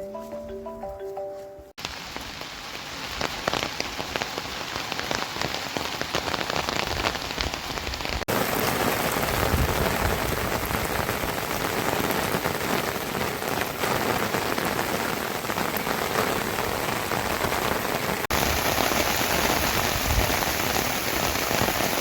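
Steady rain falling, a dense hiss of countless small drop hits on surfaces. A short music phrase cuts off about two seconds in, and the rain gets a little louder at abrupt cuts near eight and eighteen seconds.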